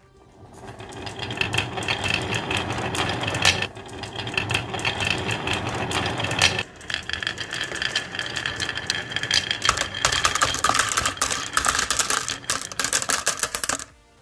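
Many marbles rattling and clacking down a plastic marble-run track, a dense rapid clatter that dips briefly twice and cuts off suddenly near the end.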